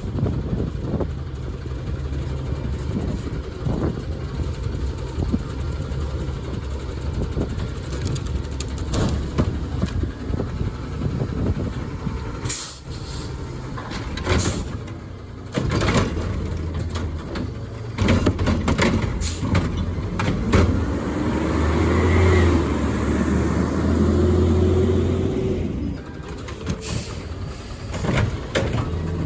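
Garbage truck's diesel engine running, with several short, sharp air-brake hisses. From about twenty seconds in, the engine revs up for several seconds with a whine that rises and falls, typical of the truck driving its hydraulics to lift and pack.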